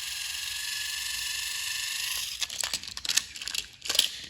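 Small battery-powered toy train motor (a motorized Henry engine) running steadily with a gear whine, switched off about two seconds in, followed by clicks and rattles of the plastic toy being handled.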